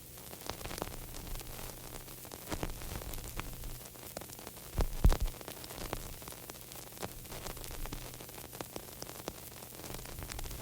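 Crackling static: a steady hiss with a low hum underneath and scattered small pops and crackles, with louder pops about two and a half and five seconds in.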